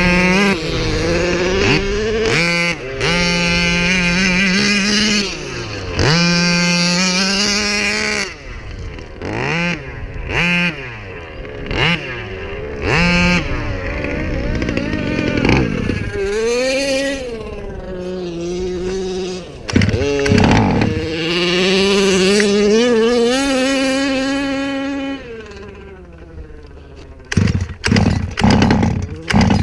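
King Motors Baja 5B RC car's 38cc two-stroke engine with a tuned pipe, revving up and falling back in repeated throttle bursts. Near the end the engine note fades and a run of sharp knocks follows. The owner says it just does not want to run right.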